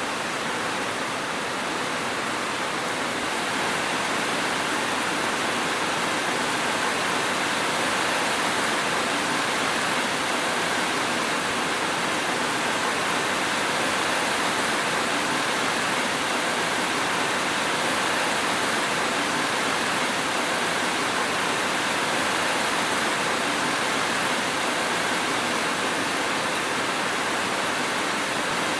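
Steady heavy rain, an even hiss with no separate drops or thunder standing out, a little louder from a few seconds in.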